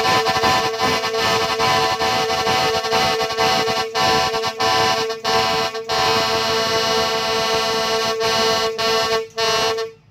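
Truck air horn blowing one steady, reedy note with a few brief breaks, then cutting off just before the end.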